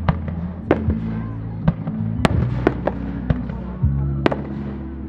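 Starmine fireworks shells bursting in a rapid, irregular series of sharp bangs, the loudest about two and a quarter seconds in, over steady background music.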